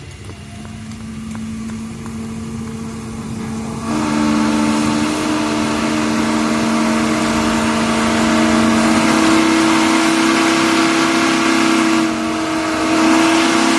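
Steam whistle blowing: a single low note at first, then about four seconds in a loud rush of steam and a second, higher note join it in a steady chord. The whistle briefly dips near the end before sounding fully again.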